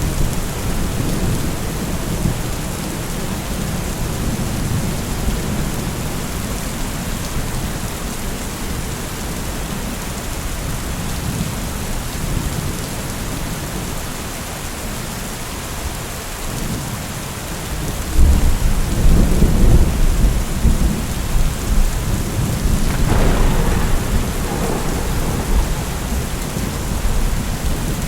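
Steady rain falling, with low rolling thunder underneath. The thunder swells louder about two-thirds of the way in and rumbles on to the end.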